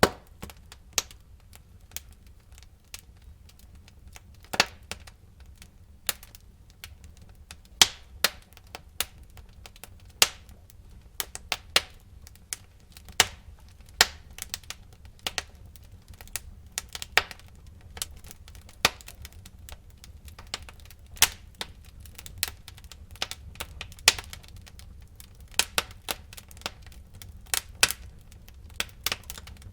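Burning wood in a fireplace crackling and popping: sharp irregular snaps, a few louder pops among many small ones, over a low steady rumble of the fire.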